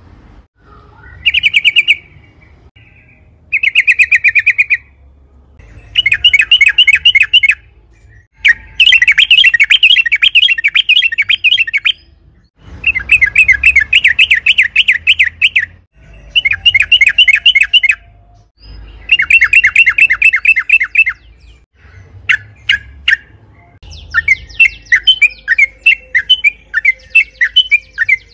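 Yellow-vented bulbul (trucukan) singing: a string of loud, fast rattling trills, each lasting one to three seconds with short pauses between, turning into a denser, choppier chatter near the end.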